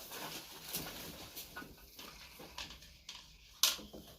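Handling noises of scattered rustles and light knocks, with one sharp click about three and a half seconds in.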